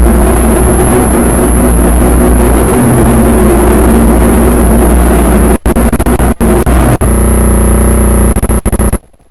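Very loud distorted static-like noise with a steady high whine and a low hum underneath. It drops out briefly several times in the second half, turns buzzier, then cuts off abruptly near the end.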